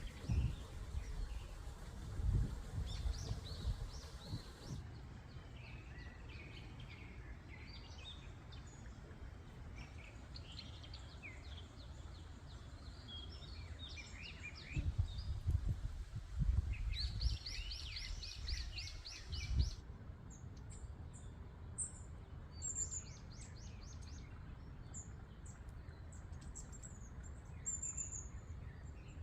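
Small birds chirping and singing, with a rapid trill of repeated notes a little past the middle and short high calls in the last third, over a low rumble that swells and fades in gusts.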